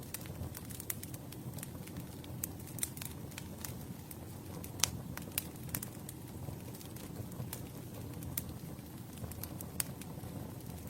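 Campfire crackling: a steady low rush of burning wood with sharp pops and snaps scattered irregularly, the loudest pop about halfway through.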